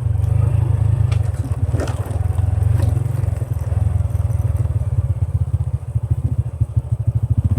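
Honda Dream step-through motorbike's small single-cylinder engine running at low revs with a fast, even pulse while it works along a rough track, with a few knocks and rattles from the bike.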